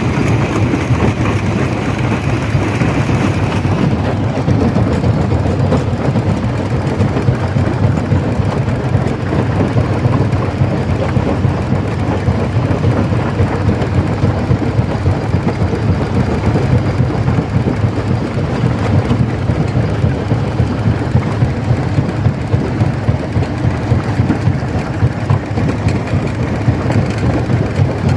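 Stone crusher running with a steady heavy rumble and a dense gritty rattle of rock being crushed. A brighter hiss in the first few seconds fades out about four seconds in.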